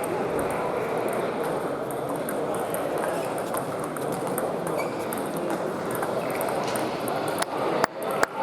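Table-tennis hall ambience: a steady hubbub with faint scattered clicks of ping-pong balls. Near the end come a few sharp, louder clicks of a ball being hit and bouncing.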